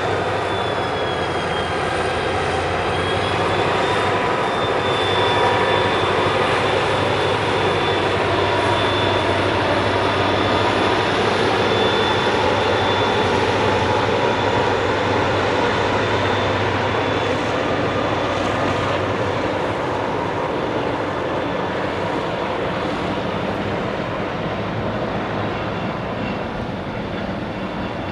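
A train running past with a steady rumble and a few steady high whining tones over it; it swells a few seconds in and slowly fades toward the end.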